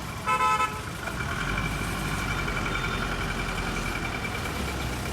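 A large bus's engine idling with a steady low rumble and a faint whine. It is preceded near the start by a short horn toot about half a second long.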